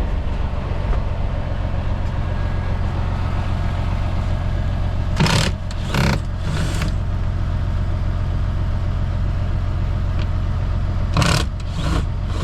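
Semi truck's diesel engine idling with a steady low hum. Two clusters of short hissing bursts, each of three, break in about five seconds in and again near the end.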